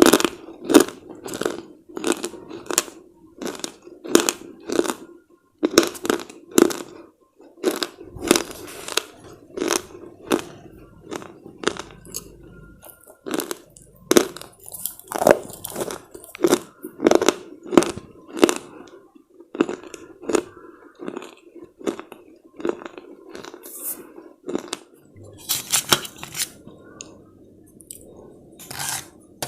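Chewing on brittle slate chips: teeth crunching and cracking the pieces in a steady run of crisp cracks, roughly two a second.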